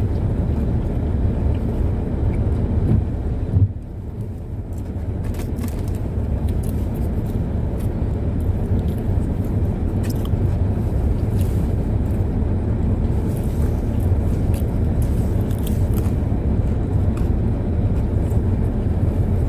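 Car interior road noise while driving: a steady low rumble of engine and tyres, with one brief bump about three and a half seconds in.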